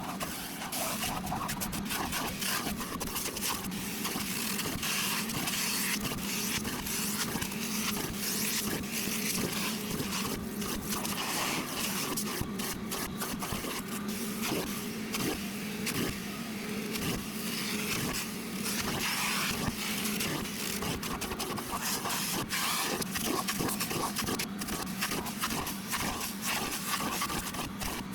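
Ridgid portable shop vacuum running steadily with a hum, its extractor wand pulling cold water out of cloth seat upholstery with irregular scraping and sucking as it is drawn across the fabric.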